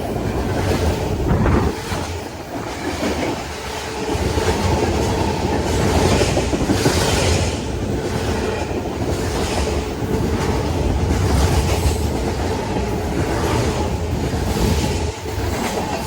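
Freight train passing at speed: a steady rumble with the clatter of freight car wheels over the rails, swelling and easing as the cars go by.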